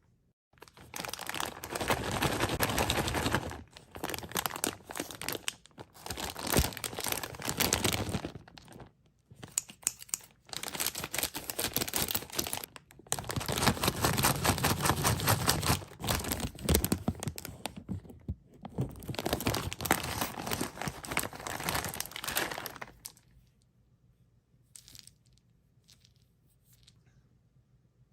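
Plastic candy wrappers being crinkled and torn open by hand, in a long series of rustling bursts with short pauses between them. The rustling stops about 23 seconds in, leaving a few faint clicks.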